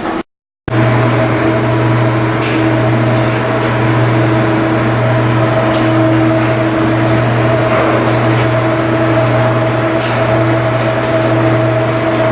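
Steady machinery drone: a strong low hum with two higher steady tones above it and a few faint ticks. It cuts out completely for about half a second near the start, then comes back at the same steady level.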